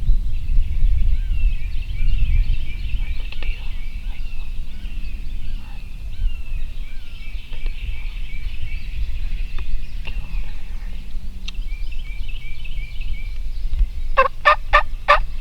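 Small birds singing throughout. Near the end, a wild turkey gobbler gobbles close by: a quick rattling burst of about four loud pulses.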